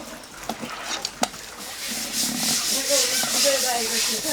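Knife scraping over a fish on a cutting board, with a couple of sharp knocks in the first second and a half, then a steady scraping hiss from about two seconds in. Voices murmur underneath.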